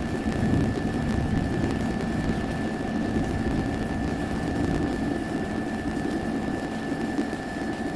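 Steady mechanical hum with a constant high-pitched whine over it.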